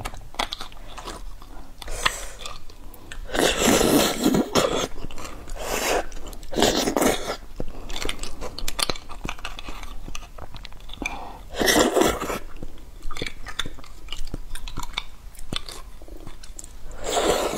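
Close-miked mouth sounds of eating braised beef bone marrow: wet chewing and biting, with a few louder noisy bursts about four, seven and twelve seconds in and again near the end.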